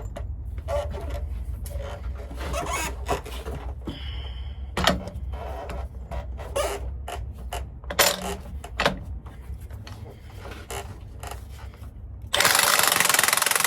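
Hand tools clinking and knocking as they are handled and gathered, a string of separate metallic knocks and clatters. About twelve seconds in, a loud, steady machine noise starts suddenly.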